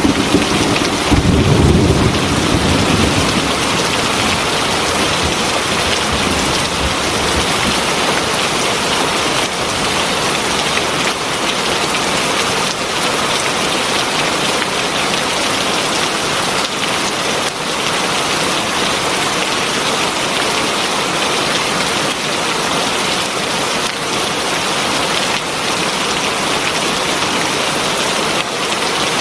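Heavy rain falling steadily, with the low rumble of a thunderclap dying away in the first few seconds.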